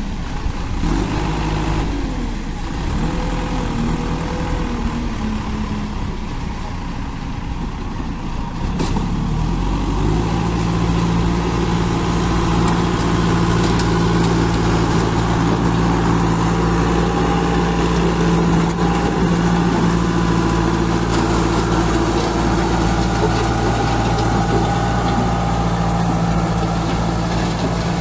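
JCB 2DX backhoe loader's Kirloskar diesel engine running. Its note wavers for the first several seconds, then about ten seconds in the engine speeds up to a higher, steady speed and runs on a little louder.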